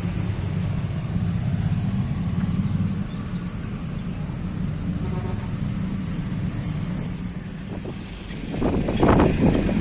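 Heavy diesel engine running steadily with a low drone, with a louder rush of noise near the end.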